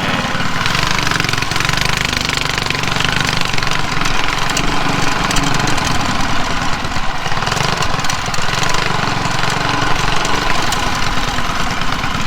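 Mini bike's small gasoline engine running steadily.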